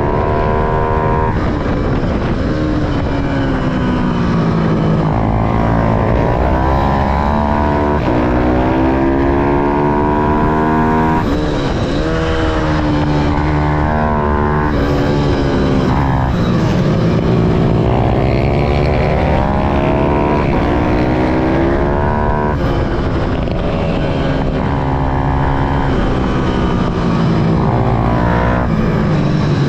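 Small mini-racing motorcycle engine running hard, its pitch climbing under throttle, breaking off at shifts and falling away on the brakes, over and over as it laps.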